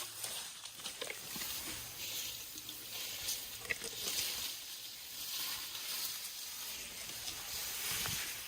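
Leafy branches rustling and twigs crackling as elephants handle and chew browse, with scattered small snaps.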